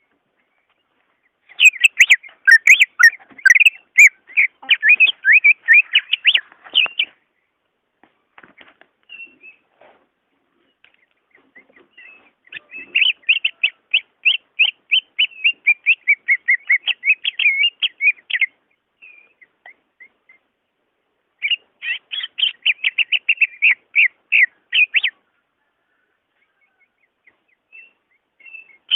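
A cucak ijo (greater green leafbird) singing in three bursts of rapid, sharp, high notes, several a second, separated by pauses with a few scattered single calls.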